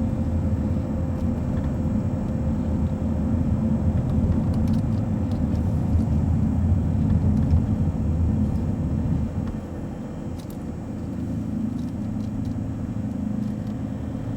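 Steady engine and road rumble heard from inside a moving vehicle's cabin, easing a little about two-thirds of the way through.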